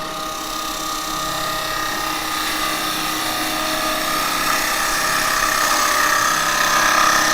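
Woodturning lathe running with a spindle gouge cutting into a spinning bowl of wet cherry: a steady motor hum under a cutting hiss that grows gradually louder.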